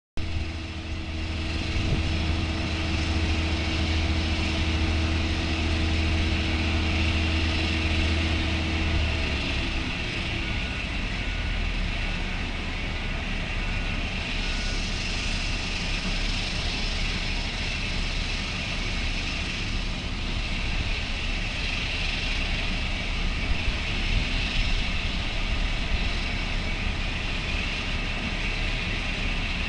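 Aircraft engines running with a steady roar. A low hum with a steady tone underneath fades out, sliding down in pitch about nine seconds in, while the higher engine noise carries on.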